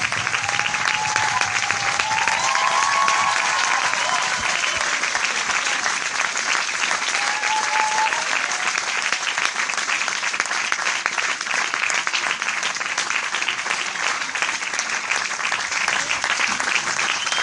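Large crowd applauding steadily: a dense, continuous mass of many hands clapping at once.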